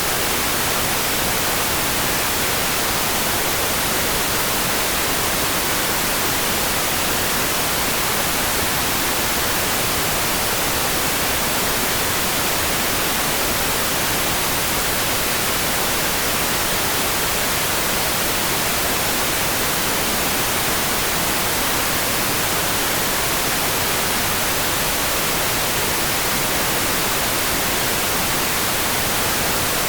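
Steady, unbroken hiss of rain, brightest in the high end, with no separate drops or thunder standing out.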